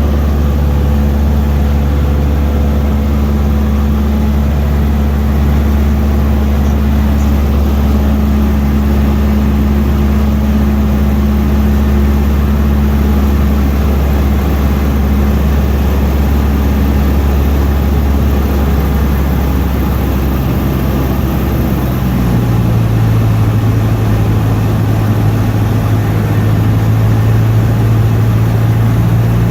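Cessna 152's four-cylinder Lycoming O-235 engine and propeller droning steadily, as heard inside the cabin. About two-thirds of the way through, the engine note shifts to a different pitch, a change in power setting.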